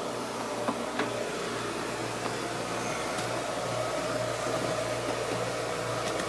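A steady mechanical whir and hum from running machinery, like a fan or air-conditioning blower, with a couple of light knocks about a second in.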